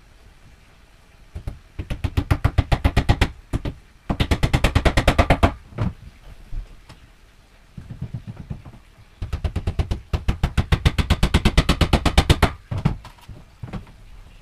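Rapid mechanical clicking, about twelve clicks a second, in four bursts of one and a half to three seconds each.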